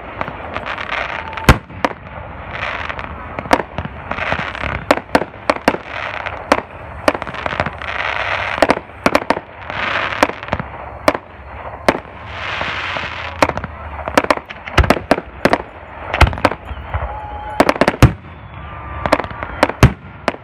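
Aerial fireworks going off in quick succession: dozens of sharp bangs, some in rapid runs, with crackling hiss between the reports.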